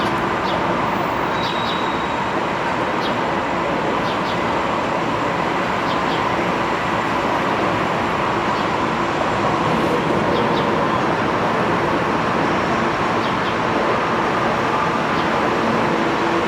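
Mixed freight train rolling past: a steady, loud noise of wheels on the rails, with a faint steady tone and scattered light ticks.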